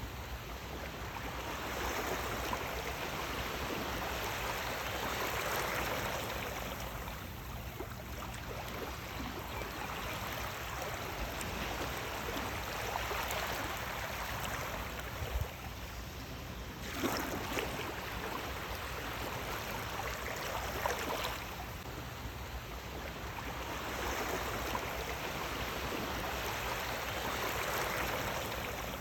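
Sea waves washing onto a shore: a steady rush of water that swells and falls back every few seconds, with a sharper wave break about 17 seconds in.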